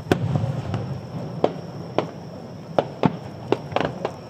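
Aerial firework shells bursting: a loud boom just after the start, then a string of sharper reports, several in quick succession near the end, over a low rumble.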